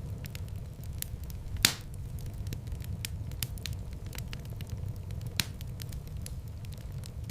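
Wood fire in a fireplace crackling, with many small irregular snaps over a steady low rumble. One loud pop comes about a second and a half in and a smaller one near the end.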